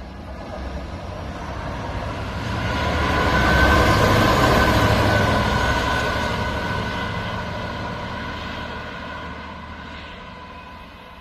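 A train passing by, growing louder to a peak about four seconds in and then slowly fading away, with a low rumble and a couple of steady high tones.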